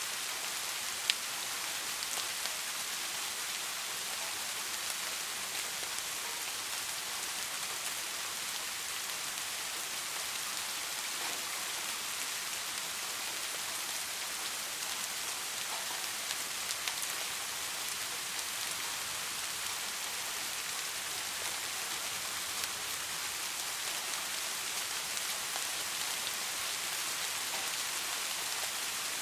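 Steady rain falling, an even bright hiss of many small drops with scattered individual drop ticks, one sharper tick about a second in.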